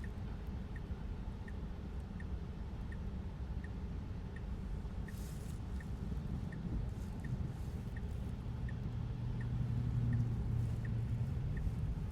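Tesla in-cabin road noise on a wet road, a steady low rumble, with the turn-signal indicator ticking evenly at about one and a half ticks a second. A low hum swells about eight seconds in, with a couple of brief hisses before it.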